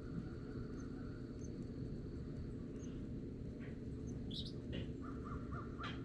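Birds calling: a few short calls in the second half and a quick run of repeated notes near the end, over a steady low background rumble.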